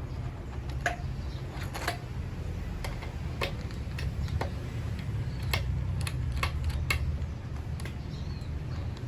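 Irregular clicks and short squeaks of a screw being turned out of a motorcycle fairing bracket with an Allen wrench, about one or two a second, over a steady low hum. The squeak suggests the fitting wants oil.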